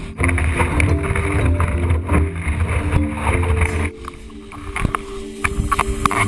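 Wind and water rushing over the action camera's microphone, loud with a low buffeting rumble for about the first four seconds, then dropping off with scattered splashy clicks. Background music with a steady melody plays underneath.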